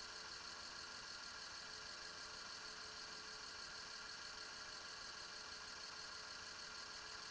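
Car engine idling steadily, with no change in speed.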